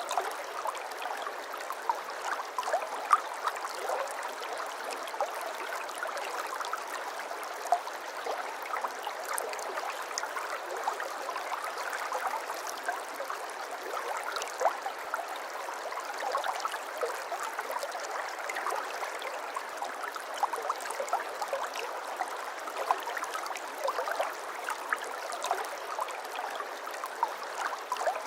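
Water flowing and trickling steadily, a babbling of many small splashes and gurgles.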